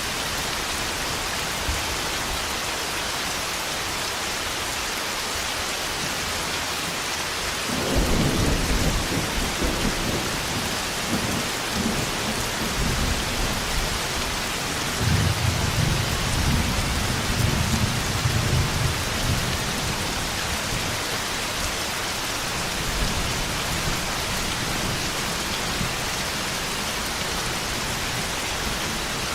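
Steady heavy rain, with a loud thunderclap about eight seconds in that rolls on as rumbling thunder in waves for roughly ten seconds before the rain carries on alone.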